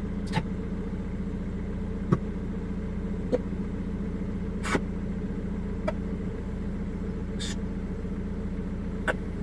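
Jaguar X-Type engine idling steadily, heard from inside the cabin as an even low hum. About seven short sharp clicks fall at irregular intervals over it.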